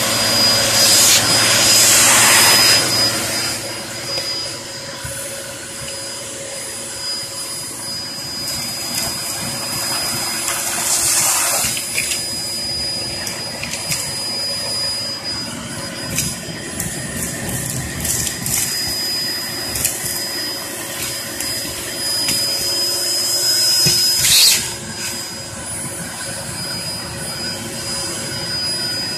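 Hoover Performer Pet HPT16 upright vacuum cleaner running with a steady high-pitched motor whine. It sucks up fireplace ash in louder rushes a second or two in, around eleven seconds in, and again about twenty-four seconds in.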